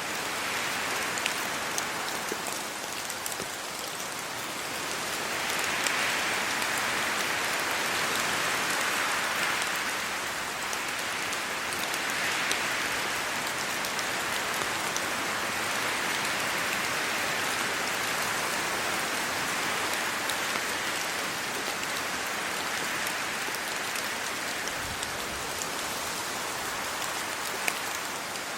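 Steady rain falling on leaves and ground, with individual drops ticking through it; the rain swells louder for a few seconds now and then.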